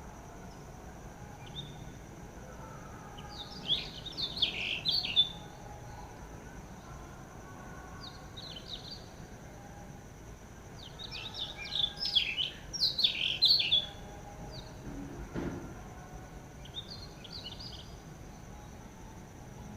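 Small birds chirping in quick twittering runs, the two loudest about four seconds in and about twelve seconds in, with shorter chirps between. A steady thin high tone runs underneath.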